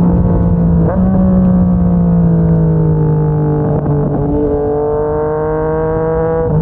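Yamaha MT-09's inline three-cylinder engine through a Yoshimura R55 slip-on exhaust, riding under way. The revs ease down, change quickly about a second in and again near four seconds, then climb slowly.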